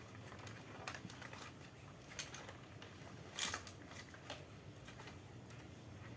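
Faint scattered clicks and scrapes of small handling work, the sharpest click about three and a half seconds in, over a low steady hum.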